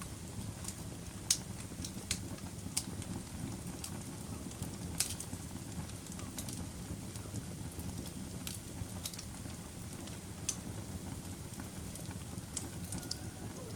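Campfire burning: a steady low rumble of flames with irregular sharp crackles and pops every second or two, the loudest pops about a second and five seconds in.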